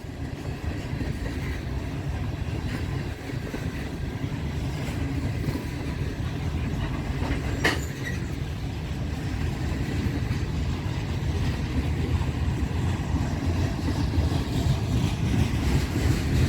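Heavy Norfolk Southern freight train rolling slowly past, a steady rumble of steel wheels on the rails that slowly grows louder, with one sharp clank about eight seconds in.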